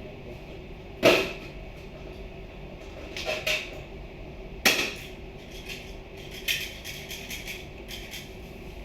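Hard objects knocking during work: two loud, sharp knocks, about a second in and near the middle, with a short clatter between them and lighter taps and clicks near the end.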